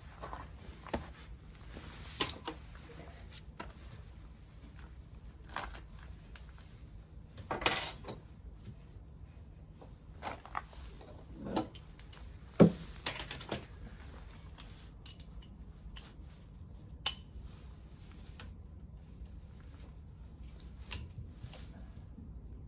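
Metal hand tools and scooter engine parts clinking and knocking at irregular intervals as parts are taken off the engine, with one sharper clank about halfway through.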